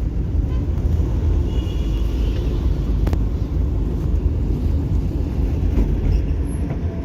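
Steady low rumble of a moving road vehicle's engine and tyre noise, with a faint brief high tone about two seconds in and a single click about three seconds in.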